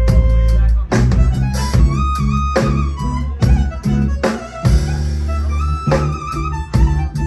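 Live band playing an instrumental passage: drum kit keeping a steady beat over bass, with a sustained melodic lead line and no singing.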